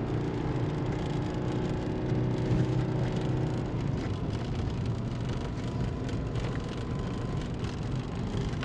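Tow car's engine running with a steady low hum.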